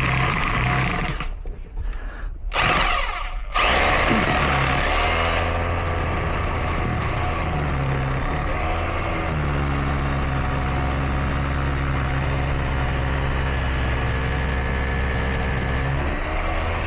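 Power drill drilling, switched on in two short bursts and then held on for a long run, its motor pitch wavering as the bit meets resistance.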